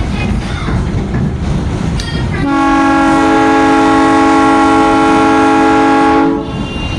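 A train horn blows one long chord of several notes held for about four seconds, starting a couple of seconds in and then cutting off, over a steady rumble.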